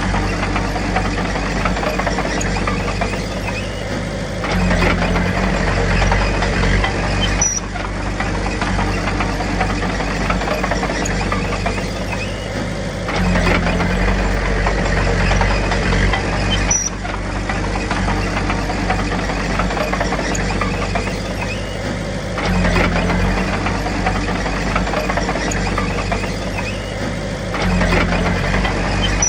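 Diesel engine of a small crawler bulldozer running steadily, getting louder and deeper in swells about every nine seconds as the machine works under load.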